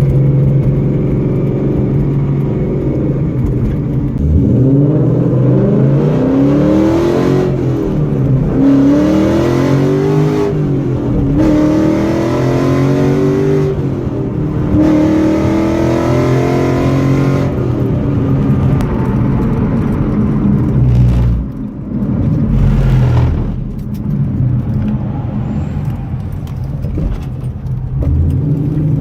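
2015 Ford Mustang GT's 5.0-litre V8 accelerating through several upshifts, the revs climbing and dropping back in steps, then settling to a steadier cruise with a couple of brief dips in the last third.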